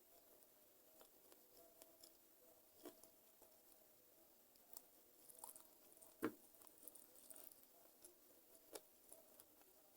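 Faint close-miked chewing of chicken feet: scattered small wet clicks and crunches, with one louder click about six seconds in.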